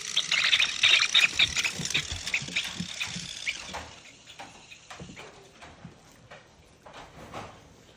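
Boxer puppies scrambling and playing with toys: a dense run of paw pattering, clicks and scuffs over a steady hiss, which thins out to scattered faint clicks about four seconds in.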